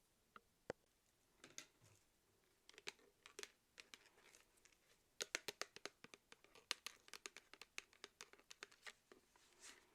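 Faint crinkling and clicking: scattered small sharp clicks that thicken into a quick run from about five seconds in.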